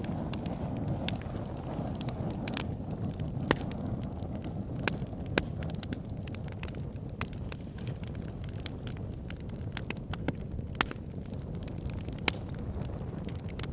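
Wood fire burning in a fireplace: a steady low rumble of flames with irregular crackles and sharp pops throughout, a few of them much louder than the rest.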